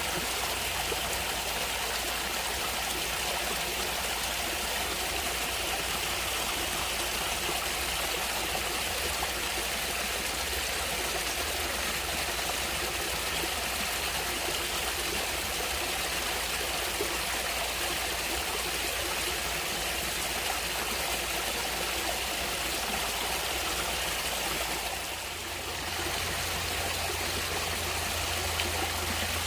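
Steady rushing and trickling of a flowing natural stream, dipping briefly in level a few seconds before the end.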